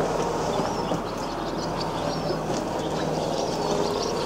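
Small birds chirping intermittently over a steady outdoor background hiss.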